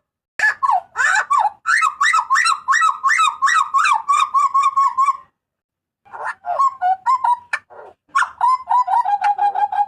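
Jagal papua (a New Guinea butcherbird) giving its loud calls in rapid runs of short, harsh notes, about four or five a second. The calls stop for a moment about five seconds in, then start again.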